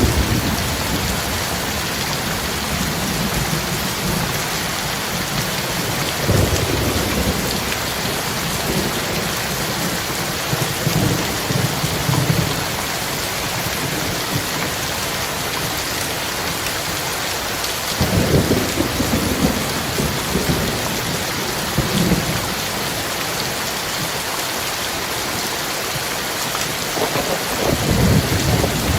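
Heavy rain pouring steadily, with thunder rumbling low several times, loudest about 18 seconds in and near the end.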